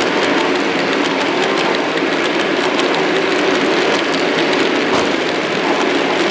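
Model train running on the layout: a steady mechanical running noise with many small, irregular clicks.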